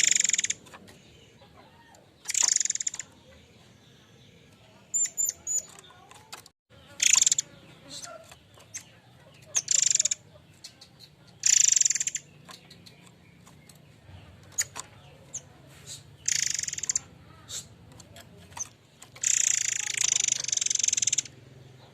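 Murai air mancur (forktail) calling: a series of shrill, high, hissy calls repeated about every two seconds, with a few quick thin notes about five seconds in and a longer call of about two seconds near the end.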